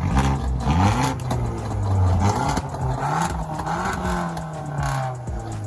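A car engine revving, its pitch climbing and falling back several times.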